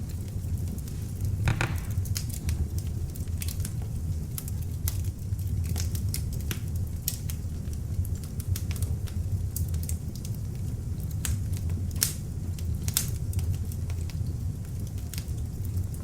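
Beech-wood log fire burning in an open fireplace: a steady low rumble of flames with scattered sharp crackles and pops from the burning logs, a few of them louder.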